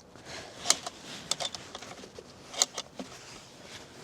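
A small locked drawer being tugged and rattled: a few sharp clicks and knocks, two louder ones about a second in and again near three-quarters of the way through.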